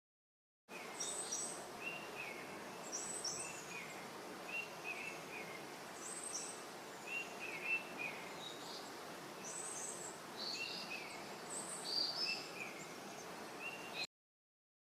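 Birds chirping over a steady background hiss, short calls repeating about once a second in a higher and a lower pitch. The sound cuts off suddenly near the end.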